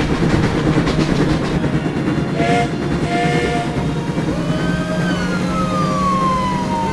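Train running with a steady rumble, giving two short whistle blasts a little over two seconds in, then a long whistle tone that slides down in pitch through the second half.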